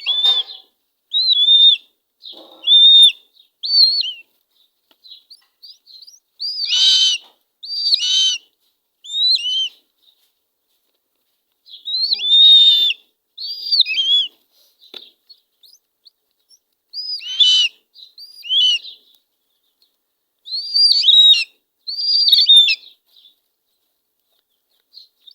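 Eagle chicks giving high-pitched begging calls while being fed: short arched peeps in bursts of several, with pauses of a second or two between bouts.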